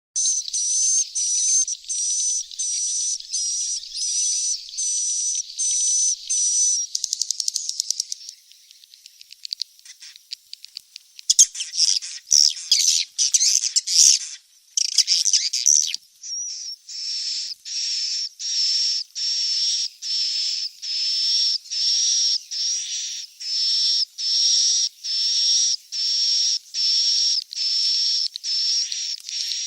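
Recorded swiftlet chick calls, the buzzy chirping of young edible-nest swiftlets, repeating about one and a half times a second. About a third of the way in the calls break into rapid ticking and then a stretch of denser, jumbled twittering before the steady chirping returns. This is the kind of call track played in swiftlet houses to lure swiftlets in to roost.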